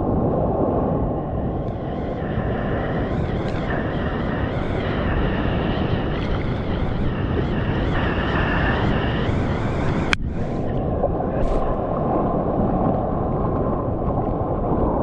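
Loud, steady rushing of seawater and wind over a surfer's GoPro action camera in the surf, with a sharp click about ten seconds in.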